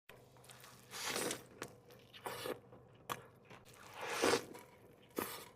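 A person biting and chewing food close to the microphone: a few separate crunchy bites with wet mouth clicks between them.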